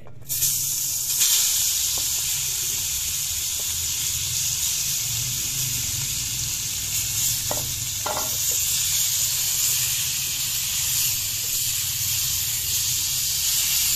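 Marinated chicken pieces sizzling steadily as they fry in a tablespoon of hot oil in a frying pan. The hiss starts suddenly just after the start and carries on evenly.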